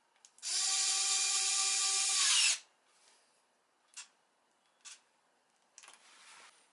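Hand-held electric power tool running for about two seconds with a steady whine, its pitch sagging as it stops. A few sharp clicks and a short rustle follow.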